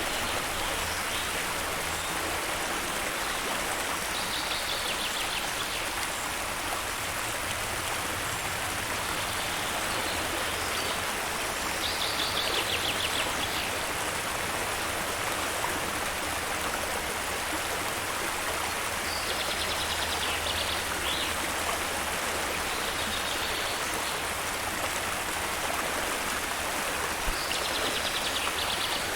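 Steady rush of a waterfall, with short, high, rapid trills recurring every few seconds over it.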